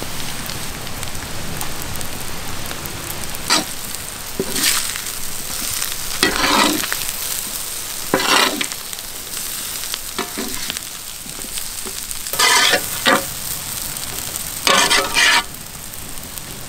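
Onion-and-spice masala sizzling in hot oil in a pan, with a spoon stirring and scraping through it in about six short strokes.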